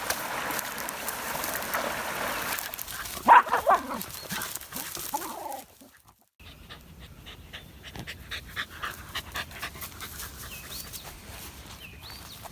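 A dog whines and yelps in a few short, high, bending cries about three seconds in, the loudest sound here, with another whine about two seconds later. After a brief gap, a run of small scuffs and clicks follows, with faint high squeaks.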